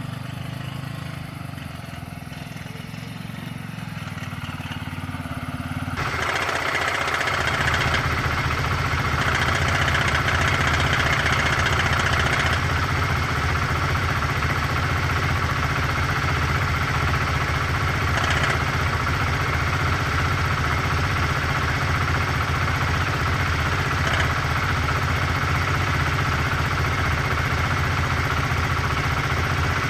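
Honda CBR125R's single-cylinder four-stroke engine running steadily, growing louder and brighter about six seconds in. It carries a tinny, metallic knocking that comes and goes and that the owner hears through the exhaust; he takes it for an unhealthy sign and wonders whether it is piston slap.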